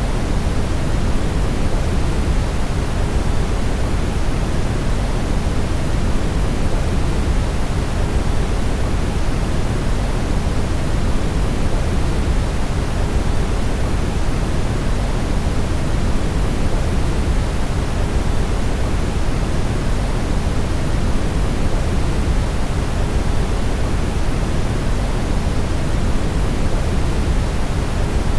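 Brown noise: a steady, even hiss weighted heavily toward the low end, deep and rumbling, with no changes or events.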